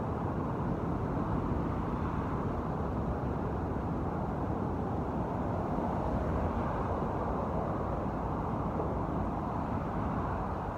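Steady road traffic noise: a continuous, even rumble of passing cars with no single vehicle standing out.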